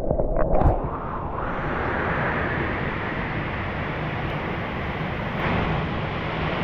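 A small waterfall's steady rushing water, settling in about a second and a half in after a few knocks and some low rumbling.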